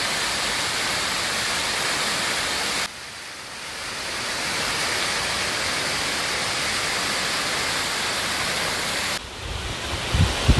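Waterfall, a steady rushing hiss of falling water. It drops abruptly about three seconds in and builds back. Near the end it drops again and wind buffets the microphone in low thumps.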